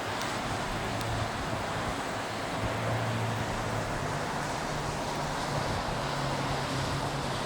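Steady rain falling, an even unbroken hiss, with a low steady hum underneath.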